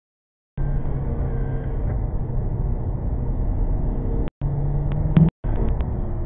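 Skoda Yeti 4x4's 2.0-litre common-rail diesel and its tyres running steadily at about 56 mph, a continuous low drone. The sound cuts out completely for about half a second at the start and three more times briefly.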